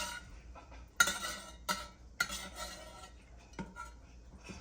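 A metal kitchen utensil clinking against a pot and glass jars a few times, each strike ringing briefly. The loudest strikes come about a second in and just after two seconds.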